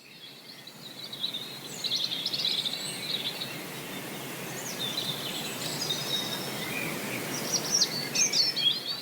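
Several birds chirping and trilling over a steady outdoor hiss, fading in at the start, with a busier run of quick chirps near the end.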